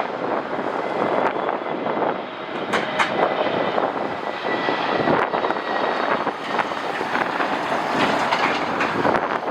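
Jet airliner engines running as an aircraft passes, mixed with gusty wind buffeting the microphone; a faint steady whine sits over the noise in the middle.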